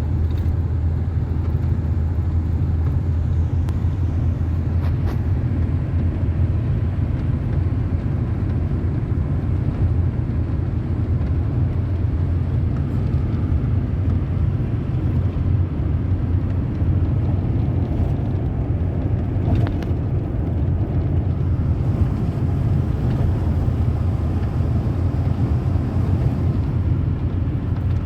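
Steady low rumble of a moving road vehicle: engine and road noise running evenly without change.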